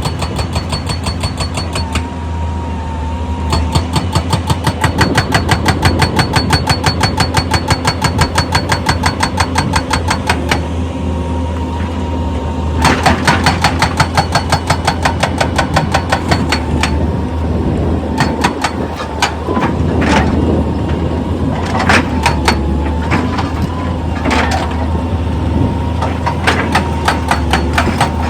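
Heavy rock-working machinery running: an engine drone under a rapid, regular hammering of about five blows a second, which breaks off about ten seconds in, returns briefly, then gives way to scattered single knocks.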